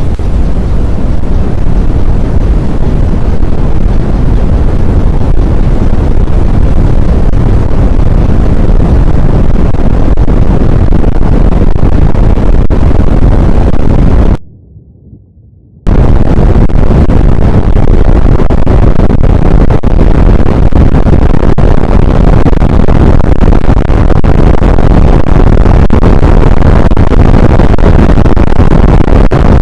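Strong wind buffeting the microphone: a loud, continuous low rumbling roar that overloads the recording. It cuts out for about a second and a half midway, then resumes just as loud.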